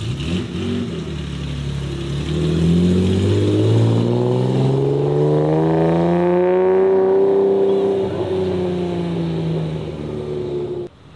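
A modified car's engine accelerating away, its revs climbing steadily for several seconds before easing off a little. The sound cuts off suddenly near the end.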